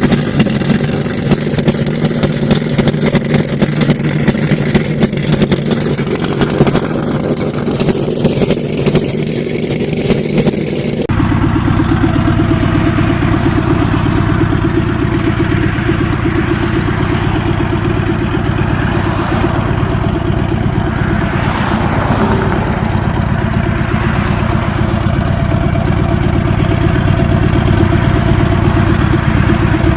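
Motorcycle engines running, uneven and pulsing at first. About eleven seconds in it changes abruptly to a steadier, deeper engine sound.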